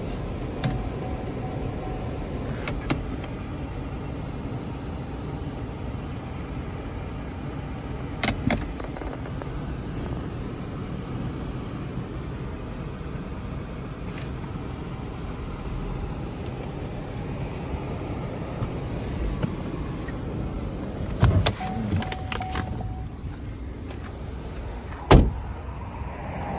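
Chevrolet TrailBlazer's 1.3 L three-cylinder engine running with a steady low rumble, heard with a few scattered clicks and knocks, the loudest about 25 seconds in. A short, steady whirring tone comes twice, once near the start and once about 22 seconds in.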